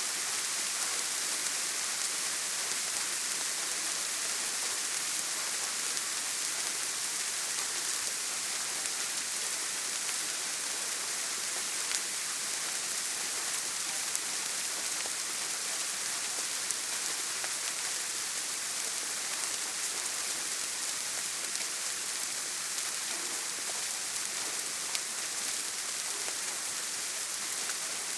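Heavy rain falling on a tin roof: a steady, even hiss with a few sharper single drop ticks scattered through.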